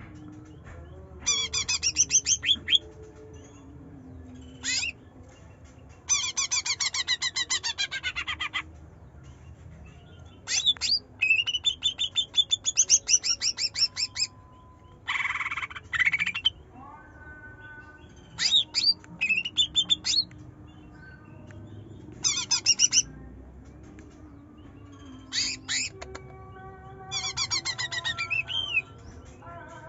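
Green leafbird (cucak ijo) singing in loud bursts of rapid, chattering high notes, each burst one to two seconds long with short pauses between.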